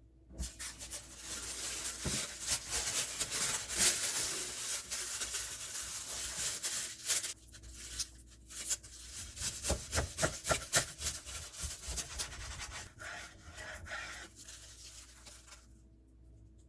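Hands working on a sandwich, giving steady rubbing and scraping with a run of quick repeated strokes around the middle.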